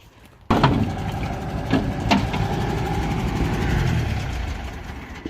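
Reciprocating saw (Sawzall) cutting through metal with a worn blade, starting abruptly about half a second in and running steadily, with a few sharp metallic clanks early in the cut.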